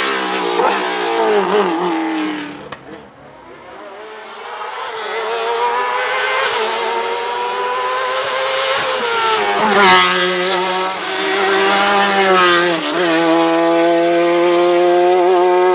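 Hillclimb race car engines at full throttle: one car fades away, then another comes up loud and keeps running hard, dropping and rising in pitch at two gearshifts with a sharp crack at each.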